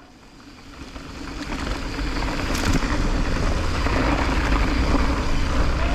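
Mountain bike descending a dirt trail: wind rushing over the rider's camera microphone along with the bike rolling over the ground, growing louder over the first two seconds as speed builds. A single sharp click sounds about halfway through.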